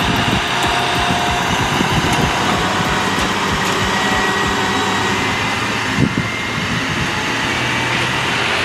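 Heavy haulage truck engine running steadily, with a short knock about six seconds in.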